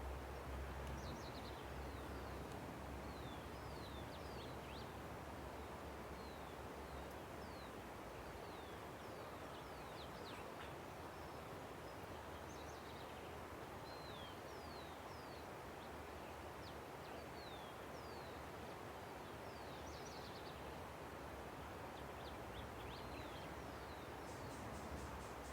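Steady rush of a river, with many small birds chirping over it: short high calls and quick downward-sweeping notes scattered throughout, and a fast, very high trill about a second before the end.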